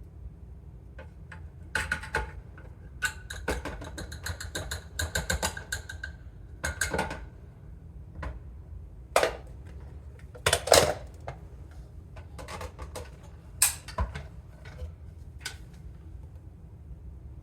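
Irregular taps and clicks on hard objects, some ringing briefly, with a quick run of taps in the first half and a few louder single clicks later, over a steady low hum.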